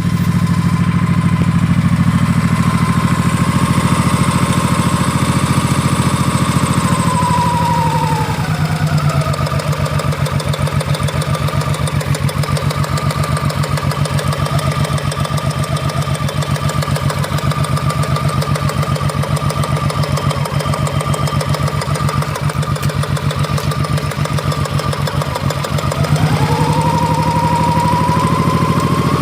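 Honda VT1100 Sabre's V-twin engine idling steadily with an even, rapid beat, carrying the timing-chain knock that the owner traced to a worn cam chain and tensioner. A higher whine behind it falls about eight seconds in and rises again near the end.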